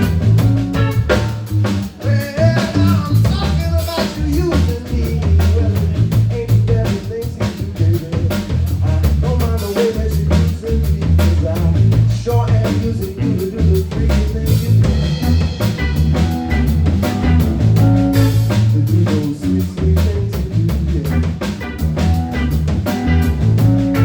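Live blues band playing an instrumental section: a drum kit keeps a steady beat with rimshots under a bass line, with a melodic lead line over them.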